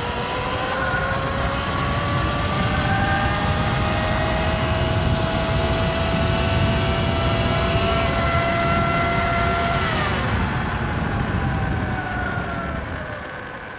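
Electric dirt bike motor whining as the bike speeds up at full throttle, the pitch climbing slowly for about ten seconds, then falling quickly as the throttle is released near the end, over the rush of wind and tyres on dirt.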